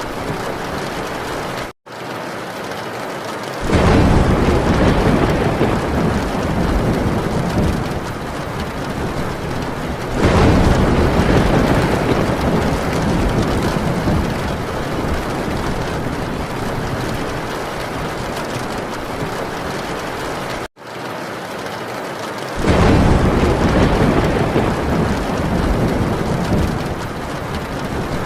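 Heavy rain drumming steadily on a metal tin roof, with rolling thunder that swells into deep rumbles three times: about 4 seconds in, about 10 seconds in, and again near the end. The sound cuts out for an instant twice.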